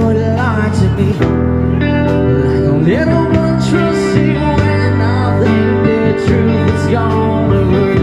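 Live band music: an electric guitar playing bending lead lines over sustained bass notes and drums.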